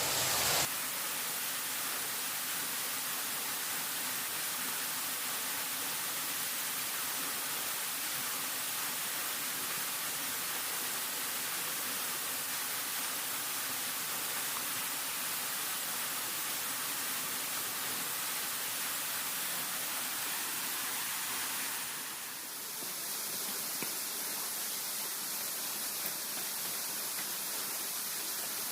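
A steady, even hiss of rushing water or rain with no distinct events. It dips briefly about two-thirds of the way through, then carries on.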